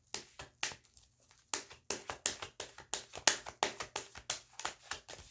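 Tarot cards being handled and shuffled by hand: a quick, irregular run of card flicks and taps, about three or four a second.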